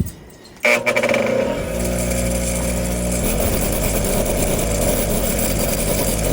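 A motor starts abruptly about a second in and runs steadily and loudly, its pitch settling within the first couple of seconds.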